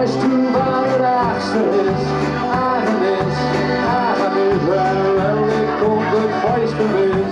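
Rock band playing the instrumental intro of a song: drums with regular cymbal strokes, a bass line, and a lead melody with bending notes.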